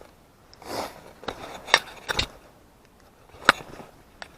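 Hand tools and parts being handled in a car's engine bay: a brief rustle, then a few separate sharp clicks and knocks, the loudest about three and a half seconds in.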